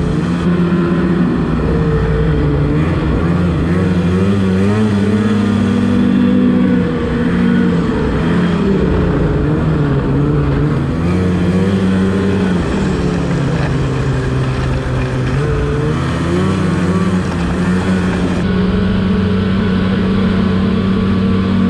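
Snowmobile engine running under way, its pitch rising and falling with the throttle, with a long dip in speed about two-thirds of the way through before it picks back up, over steady wind and track noise.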